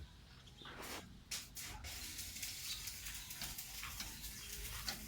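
Steady spraying hiss that starts about a second in, with irregular crackling ticks, from spray equipment used in painting and drying a tractor part.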